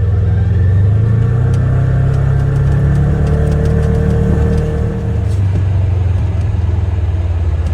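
Polaris Ranger Crew XP 1000 side-by-side's twin-cylinder engine running under way, rising in pitch over the first few seconds, easing off briefly about five seconds in, then running steadily.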